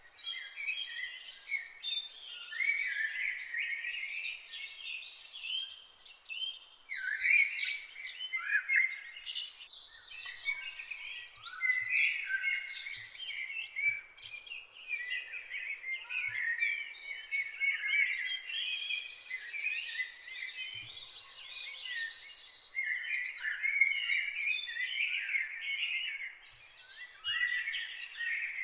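Many songbirds singing and chirping at once in a dense, unbroken morning chorus of overlapping high, quick notes and short sweeping phrases.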